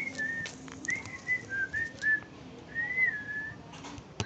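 Whistling: a string of short, high notes, each sliding up and down, about half a dozen in a row.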